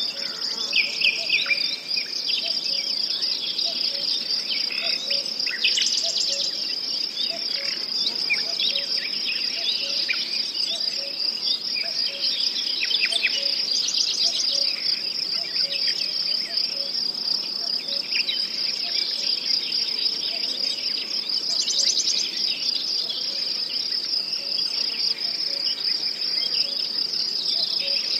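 A steady, unbroken high-pitched trill of insects, crickets or grasshoppers. Birds chirp over it a few times, most clearly about 6, 13 and 22 seconds in.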